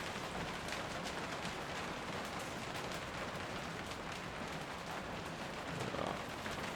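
Steady rain falling, a continuous hiss with a patter of many small drops.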